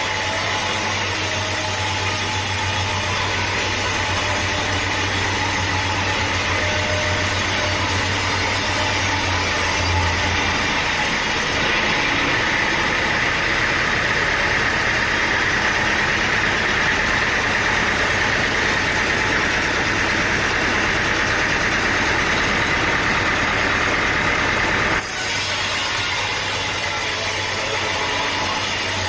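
Sawmill engine running steadily. The sound changes abruptly about twelve seconds in, taking on a stronger high whine, and switches back sharply a few seconds before the end.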